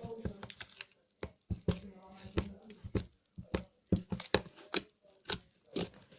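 Slime being squeezed and stretched by hand, giving off a run of irregular sharp wet clicks and pops, about two or three a second.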